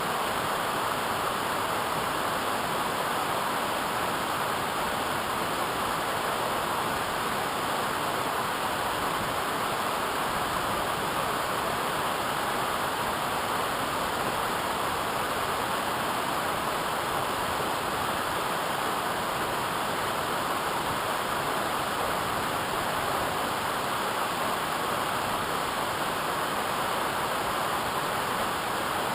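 Steady rushing of a waterfall, an even hiss without breaks or changes.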